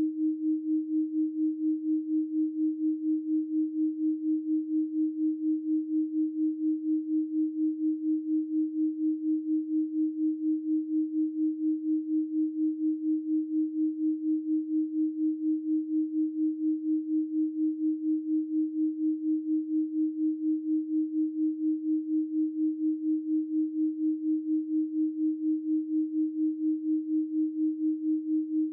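Steady 312 Hz pure sine tone, one unchanging low-mid pitch with an even, rapid pulse in loudness.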